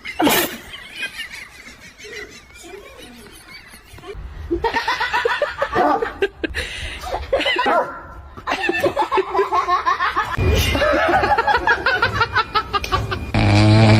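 People laughing, quietly at first, then harder and more continuously from a few seconds in.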